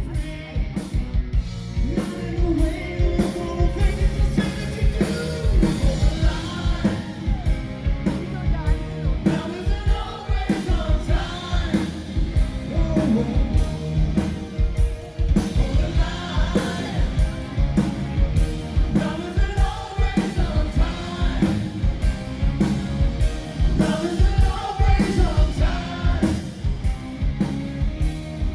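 Live rock band playing on stage: a steady drum beat under a lead singer's voice.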